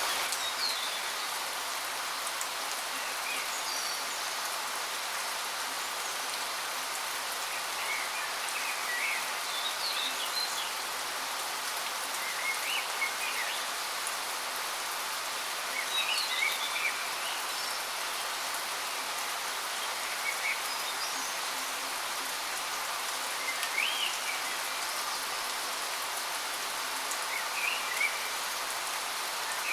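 Waterfall rushing in a steady hiss, with short bird chirps every few seconds.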